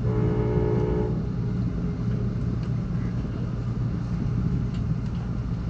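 Amtrak Cascades passenger train running, a steady low rumble heard on board, with a brief steady multi-tone sound for about the first second.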